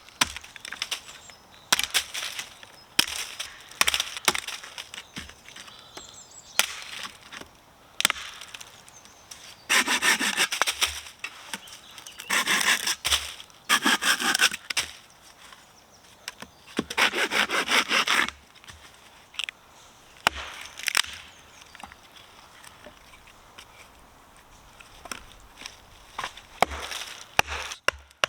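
Firewood being cut and worked by hand: short spells of sawing, with sharp knocks of wood in between. Near the end comes a quick run of evenly spaced chopping taps.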